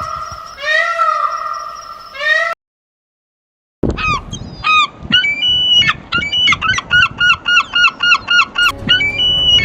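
Bird calls from two recordings: a long wailing call that rises and falls in pitch and ends suddenly about two and a half seconds in. After a second of silence comes a quick series of short, repeated calls, about two to three a second.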